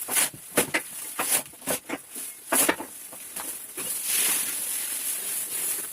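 Fresh grass rustling and crackling as it is handled: a series of short rustles, then a steadier rustle about four seconds in.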